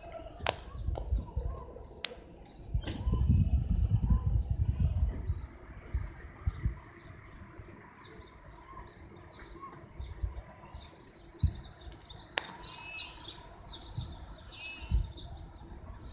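Many small birds chirping over and over without a break. About three seconds in, a low rumble rises for a couple of seconds, louder than the birds, and a few sharp clicks sound through it.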